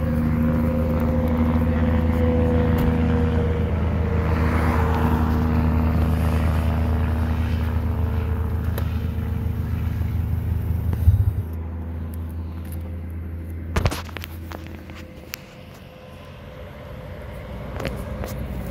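Vehicle engine idling with a steady low rumble that cuts off sharply about eleven seconds in. A single sharp knock follows a few seconds later.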